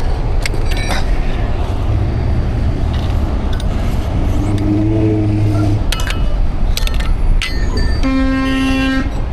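Steady low engine rumble of idling trucks and passing roadside traffic, with a few sharp clicks. Near the end a vehicle horn sounds one steady note for about a second.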